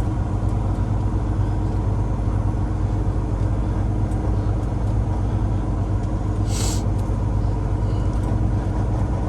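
Peterbilt 389's Cummins X15 diesel engine running steadily while the truck is driven. About two-thirds of the way through comes one short hiss of air from the truck's air system.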